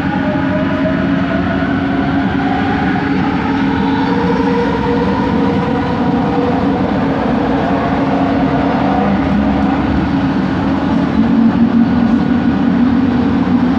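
Original Kelana Jaya Line train, a linear-induction-motor metro car, running, heard from inside the carriage: a steady low rumble with the motors' whine gliding slowly up and down in pitch. It swells a little near the end.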